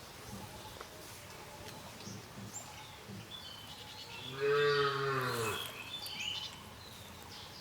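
A single long, low call from a farm animal, about a second and a half long, rising and then falling slightly in pitch, about halfway through. Short high bird chirps are scattered around it.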